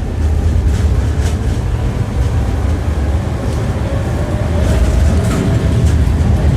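Tram running, heard from inside the car: a steady low rumble with the ringing clack of the wheels over rail joints now and then. A faint steady tone joins in the second half.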